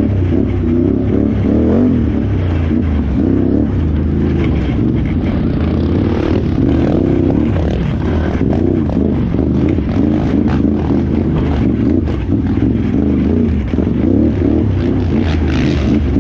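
Can-Am Renegade XXC 1000R ATV's V-twin engine running hard, its revs rising and falling continuously, with scattered knocks and rattles from the machine over rough ground.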